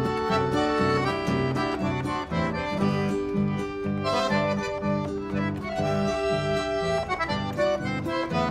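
Instrumental chamamé: an accordion playing the melody over plucked low bass notes about twice a second.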